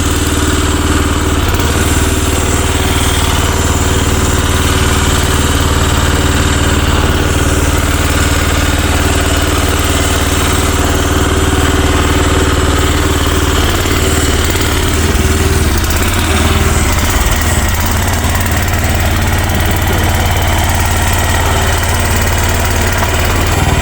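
Future FT15 mini excavator's engine running steadily, freshly started for the first time, with a small shift in its note about two-thirds of the way through.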